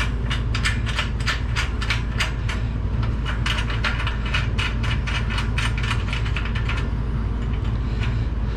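A quick run of light, sharp clicks, about three to five a second and thinning out near the end, from hand tools and parts being worked during assembly of a CNC router table frame, over a steady low hum.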